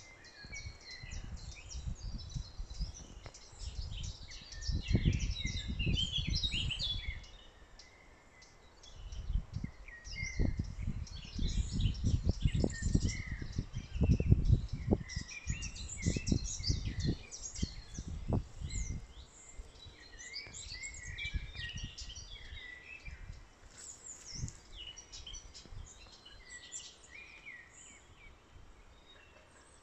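Several small forest birds chirping and singing, many short calls overlapping throughout. Low rumbling on the microphone comes and goes, loudest for a few seconds early on and again around the middle.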